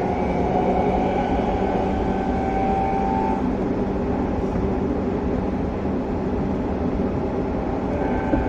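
Running sound inside a motor car of a Hanshin 1000 series electric train, with rumble from the wheels and rails under the car. The traction motors' inverter whine rises slightly, stops after about three and a half seconds, and returns near the end.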